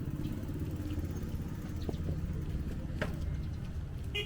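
Street traffic dominated by motorbike engines running with a steady low rumble, one sharp click about three seconds in, and a horn beep starting right at the end.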